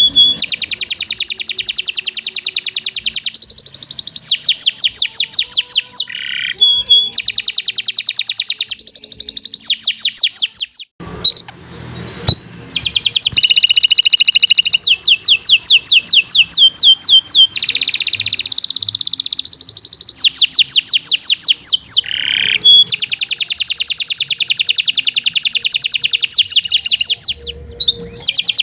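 Domestic canary singing long, fast trills of rapidly repeated high notes, one run after another, with a short break about eleven seconds in.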